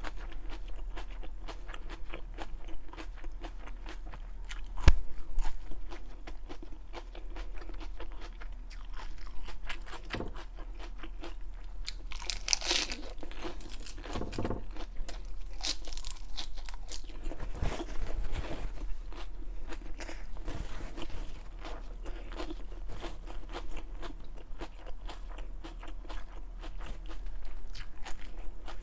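Close-miked chewing of crisp raw lettuce: a steady run of wet crunches, with one sharp thump about five seconds in.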